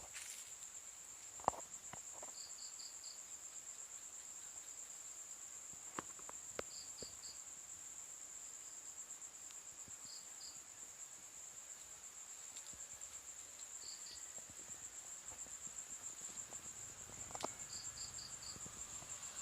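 Night insects: a steady high-pitched cricket trill, and short chirps in groups of three or four every few seconds, with a few faint clicks and rustles.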